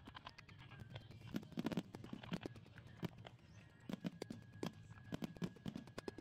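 Fireworks display: aerial shells bursting and crackling, a rapid irregular run of sharp pops and bangs over a low rumble.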